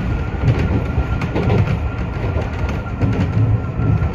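Iyo Railway 3000 series electric train running along the track, heard from inside the car: a steady low rumble with wheels clicking over the rail joints and a thin steady whine.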